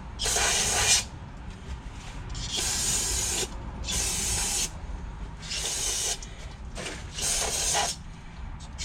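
Aerosol brake cleaner sprayed in five short hissing bursts, about a second apart, washing honing grit out of the cylinder bore of a Briggs & Stratton engine.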